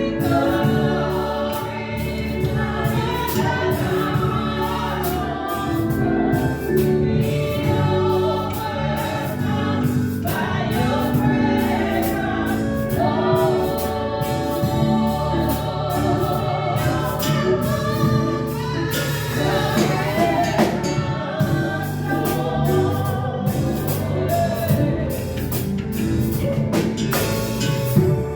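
Congregational worship singing: a group of voices singing a gospel praise song together, with a band behind them and a steady drum beat.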